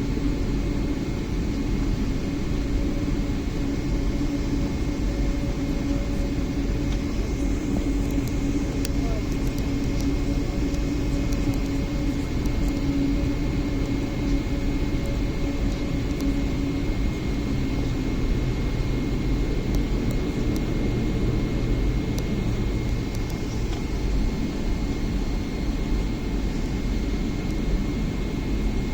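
Steady jet engine and cabin noise heard from inside a Boeing 777-300 airliner on the ground, a constant rumble with a few held tones.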